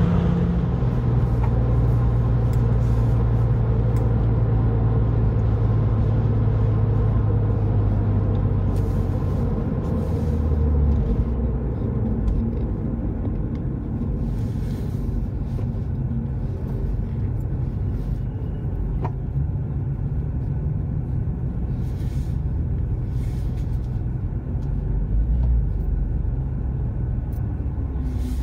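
Porsche 911 (996) flat-six engine and tyre noise heard from inside the car, running steadily at road speed, then easing off about ten seconds in as the car slows down.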